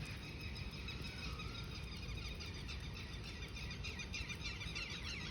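Several birds chirping and singing together in a morning chorus, with a run of quick falling notes near the end, over a steady low rumble.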